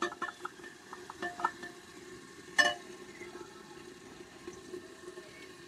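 Mutton frying with ground onion paste in an aluminium pressure-cooker pot, a steady low sizzle while a steel ladle stirs and scrapes through it, with a few light clicks early on. One sharp metallic clink about two and a half seconds in.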